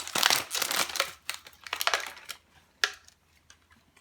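Bursts of crinkling and rustling, with one sharp click about three seconds in.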